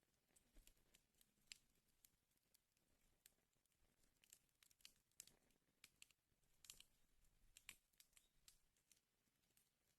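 Wood fire crackling faintly: irregular sharp snaps and pops, two or three a second, over a soft hiss.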